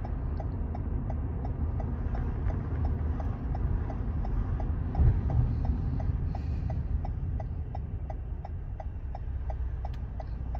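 Car turn-signal indicator ticking steadily, about three ticks a second, over the low rumble of the engine and road inside the car. There is a single bump about halfway through.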